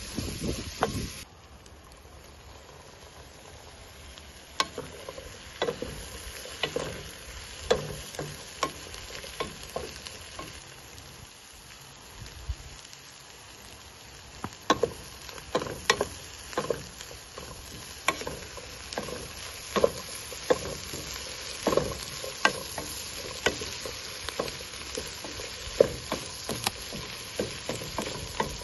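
Onions and chickpeas sizzling as they fry in a pot, with a wooden spoon knocking and scraping against the pot as they are stirred; the knocks come repeatedly from a few seconds in.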